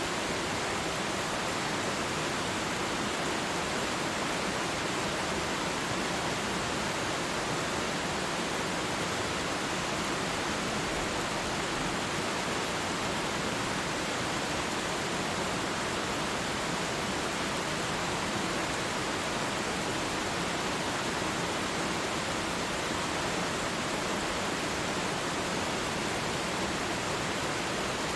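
Waterfall rushing steadily: an unbroken, even roar of falling water with no change in level.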